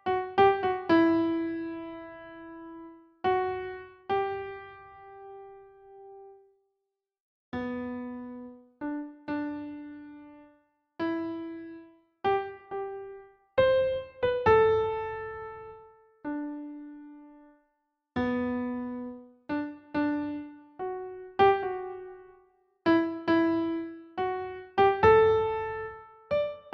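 Slow, gentle solo piano melody: single notes struck one or two at a time, each ringing and fading away, with a couple of brief silent pauses.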